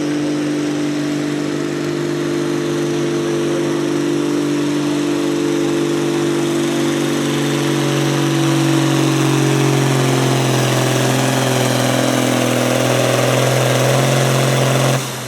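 Pulling tractor's engine running hard under load down the track, a steady loud drone whose pitch sinks slowly in the second half as the sled bears down, cutting off abruptly near the end.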